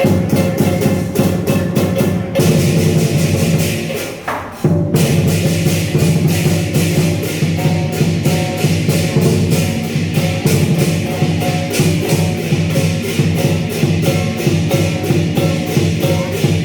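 Lion dance percussion playing a fast, steady beat of about four strokes a second. The sound drops away briefly about four and a half seconds in, then picks up again.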